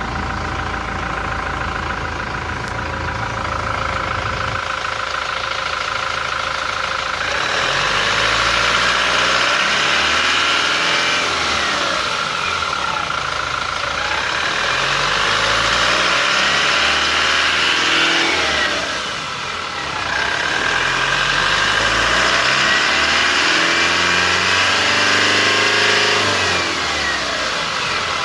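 Toyota Innova's 2GD turbodiesel engine running with a high, steady turbo whistle, then its speed rising and falling several times, the whistle and engine note climbing and dropping with it.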